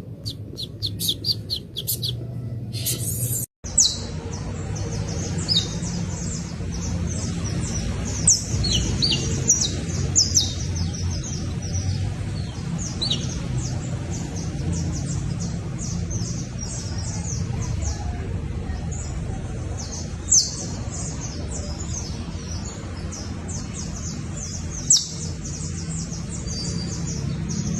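Juvenile saffron finch chirping: many short, high chirps and a few quick calls sliding down in pitch, over a steady low rumble.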